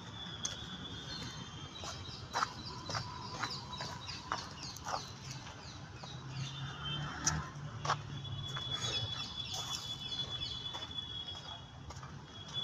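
Birds chirping and calling in short repeated notes, with chicken-like clucks and a long steady high note in the second half.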